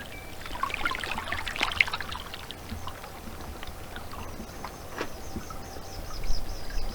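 Water washing and trickling among stones on a rocky beach, with small clicks and ticks in the first couple of seconds. From about halfway through, a bird gives a run of short, high, evenly repeated notes.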